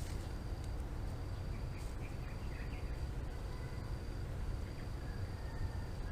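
A steady, high-pitched insect trill, broken into stretches of about a second, over a low rumble. A few faint chirps come about two seconds in.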